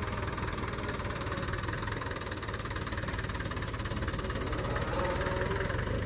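Mahindra tractor's diesel engine running at low revs with a steady, rapid knocking pulse, getting slightly louder about five seconds in, as the tractor backs up with its trolley.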